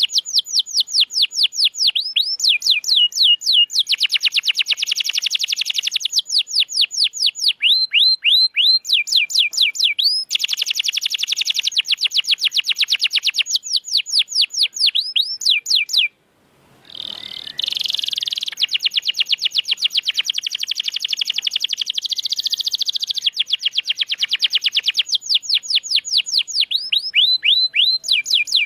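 Domestic canary singing fast rolls and trills: quick runs of repeated high down-slurred notes alternating with buzzy, rattling stretches. The song breaks off for about a second just past halfway, then carries on.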